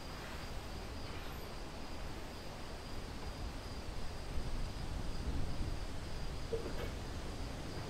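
Strong snowstorm wind outside, a steady low drone with noise over it that swells a little partway through, with a faint steady high-pitched whine alongside.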